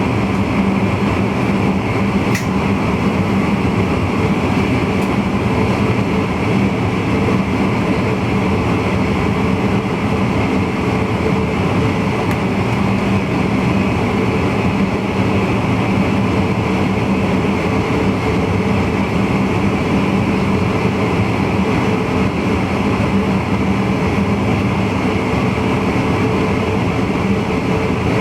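Steady running noise of an NS VIRM double-deck intercity train, heard from inside the driver's cab: an even rumble with a steady hum over it, and a short click about two seconds in.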